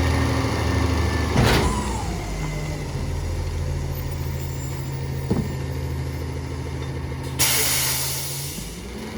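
A Peterbilt 348 garbage truck's diesel engine runs and steps up in speed about two seconds in, holding there, with a knock about a second and a half in. A short, sharp burst of air hiss comes about seven seconds in, and then the engine drops back.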